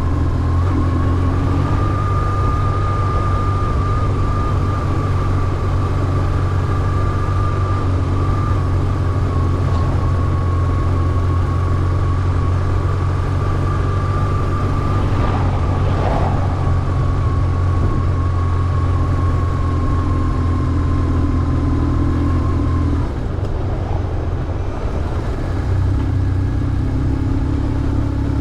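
BMW R1150GS boxer-twin engine running steadily under way, with a thin steady high whine over the engine note. The engine note falls away about two-thirds of the way through as the throttle is eased, then picks up again near the end.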